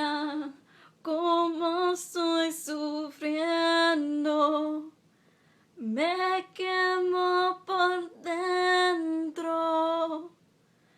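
A woman singing alone without instruments, in two long phrases of held notes with a short pause between them.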